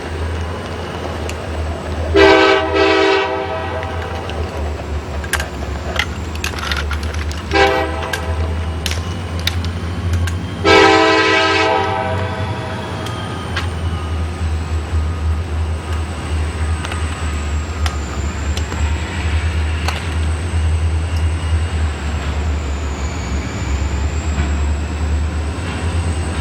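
Train horn sounding three blasts, long, short, long, over the steady low rumble of a train running, with scattered sharp clicks.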